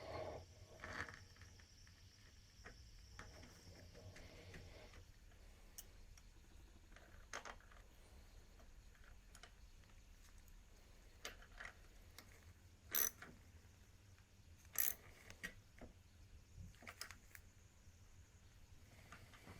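Quiet workshop with sparse small metallic clicks and clinks of tools or parts being handled during engine-to-gearbox assembly, the two sharpest about 13 and 15 seconds in.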